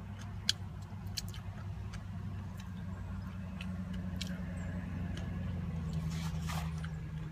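Mouth chewing food, with scattered crisp clicks, the sharpest about half a second in. Under it runs the steady low hum of the car the eater sits in, which is running. A short soft hiss comes near the end.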